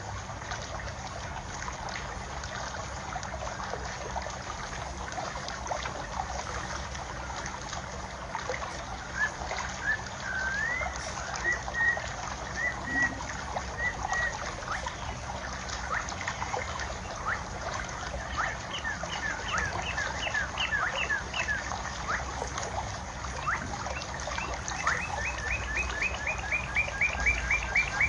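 Water trickling steadily, with small birds chirping over it. The birds give scattered short calls from about a third of the way in and a quick run of repeated notes near the end, over a low wind rumble.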